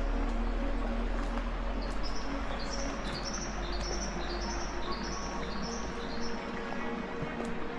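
A bird singing a quick series of short, high chirping notes, repeated in pairs for about four seconds in the middle, over a steady low rumble.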